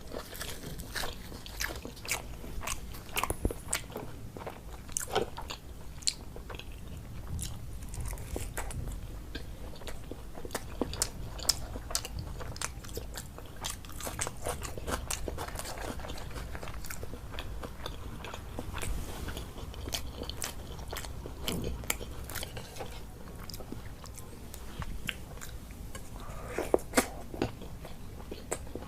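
Close-miked eating: chewing and biting food, with many short sharp crunches and mouth clicks throughout.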